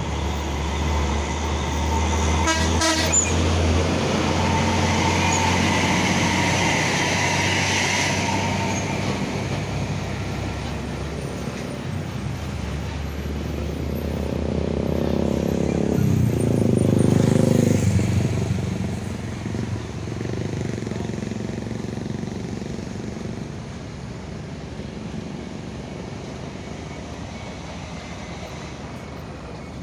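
Heavy trucks passing close by on a road with their diesel engines running. The sound swells to its loudest a little past halfway, then fades away.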